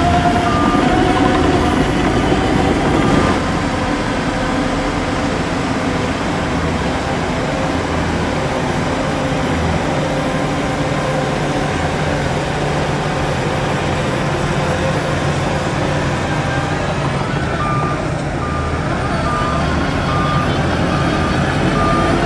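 Heavy diesel earthmoving machinery running steadily under load, with a reversing alarm beeping briefly at the start and again steadily over the last few seconds.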